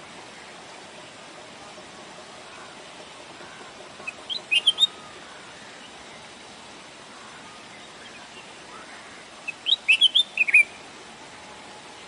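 Bird chirping: two short bursts of quick high notes, the second longer, about five seconds apart, over a steady background hiss.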